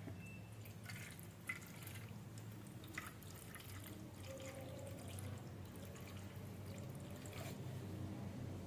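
Faint drips of liquid, a few seconds apart, over a steady low hum.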